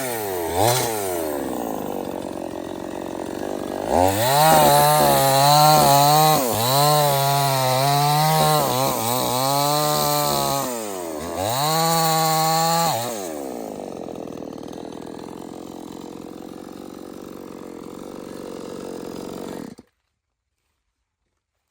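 Two-stroke 070 chainsaw blipped twice and then idling. About four seconds in it runs at full throttle, its pitch sagging and recovering as it cuts into teak wood. It dips briefly, revs again, and drops back to idle, and the sound cuts off abruptly near the end.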